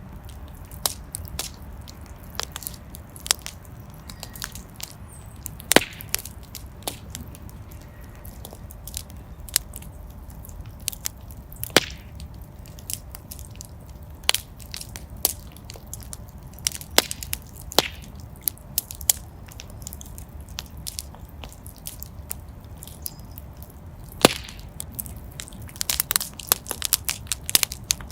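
Wood fire in a fireplace burning with a low steady rumble and irregular sharp crackles and pops, a few louder snaps spaced several seconds apart and a denser run of crackling near the end.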